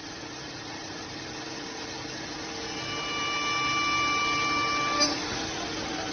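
CNC wood milling and sanding machine running with a steady mechanical hum. A high, steady motor whine joins about three seconds in and stops with a short click near five seconds.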